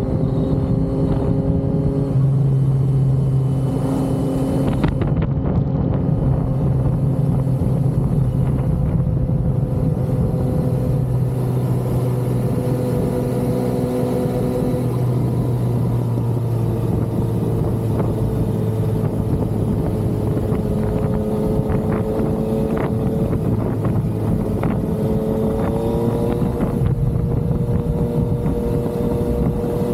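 Yamaha XSR900's inline three-cylinder engine running under way at a steady cruise, its pitch shifting a little with the throttle and rising briefly about 26 seconds in, with wind noise on the microphone.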